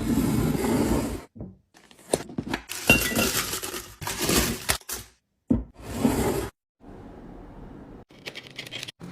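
Hard containers, glass among them, clinking and rattling as they are handled and set down. There are five busy bursts of about a second each, then a quieter, steadier sound in the last couple of seconds.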